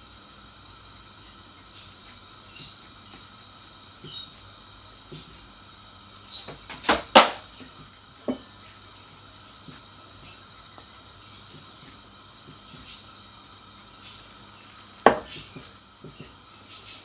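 A utensil knocking and scraping against a bowl as a mashed potato and spice mixture is stirred: scattered light clicks, with two loud knocks about seven seconds in and another loud one near the end.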